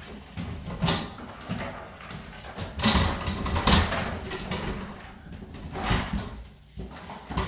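Irregular knocks, bumps and scraping of a wooden cabinet being worked loose and shifted, loudest about halfway through.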